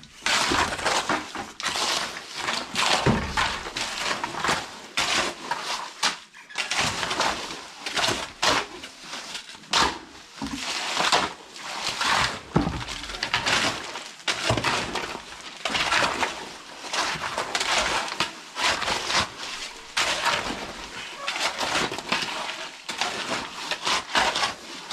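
Repeated gritty scraping strokes, about one a second, of a tool working through wet cement mortar.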